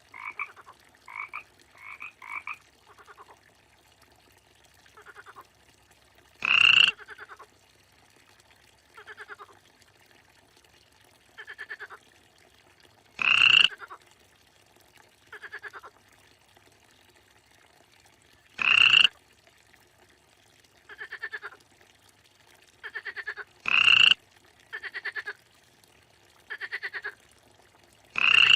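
Frogs croaking: a loud, rattling pulsed call about every five to six seconds, with quieter, shorter croaks in between.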